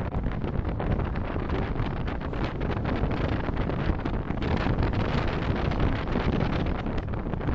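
Car driving, with steady road and wind noise picked up by a dashcam microphone.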